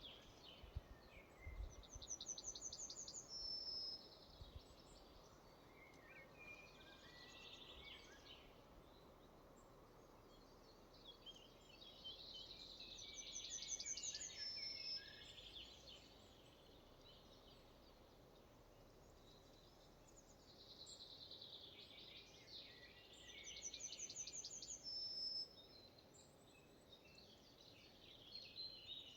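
A songbird singing three song phrases about ten seconds apart, each a quick run of high notes ending in a short flourish, faint over a soft background hiss.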